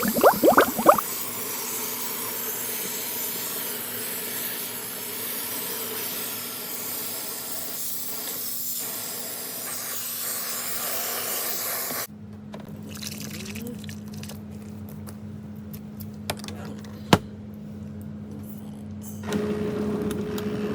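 Water spraying from a shower head into the tub of a portable washing machine as it fills: a steady hiss over a low hum. About twelve seconds in it cuts off abruptly to a quieter hum with a few clicks, and near the end a louder steady hum with a higher tone starts.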